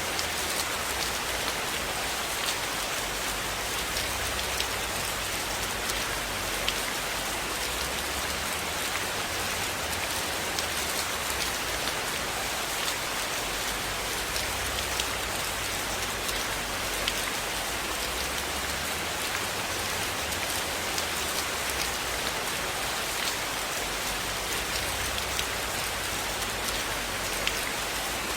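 Steady rain falling on a surface, an even hiss with many scattered sharp ticks and pops throughout.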